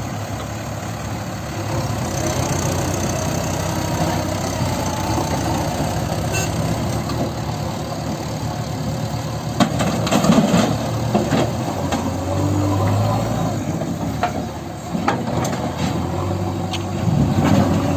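Heavy diesel engines of a tractor and a backhoe loader running steadily under load. A few sharp clanks come about ten seconds in and again near the end.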